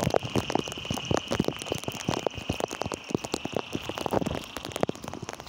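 Heavy rain falling: a dense, irregular patter of sharp drop hits over a steady hiss, with a steady high-pitched tone underneath that fades out about four seconds in.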